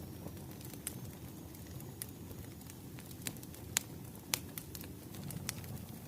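Wood fire crackling: a low steady rumble with irregular sharp pops, two of them louder near the middle.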